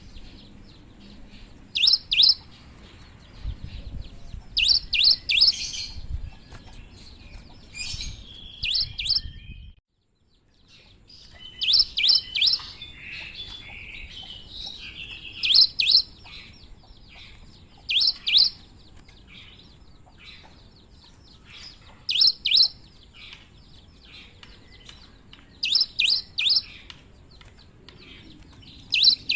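Cinereous tit (gelatik batu) calling in short, sharp bursts of two or three high notes, repeated every few seconds, with a brief break in the sound about a third of the way through.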